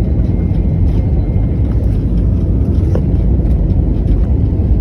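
Aeroplane landing: a steady, loud low rumble of engine and airflow noise.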